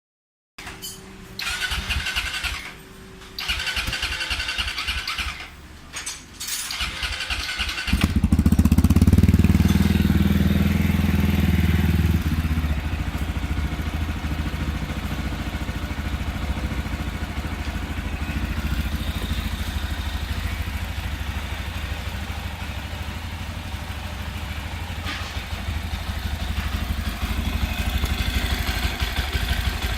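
Motorcycle engine being started: a few stop-start bursts of cranking, then about eight seconds in it catches and runs up loudly for a few seconds before settling into a steady idle.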